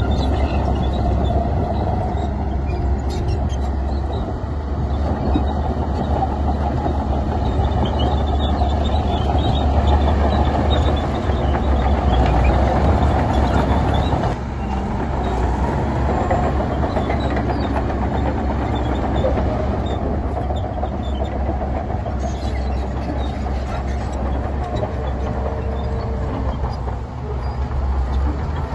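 Heavy diesel earthmoving machinery, a bulldozer or dump trucks, running steadily with a low rumble. There is a short dip in loudness about halfway through.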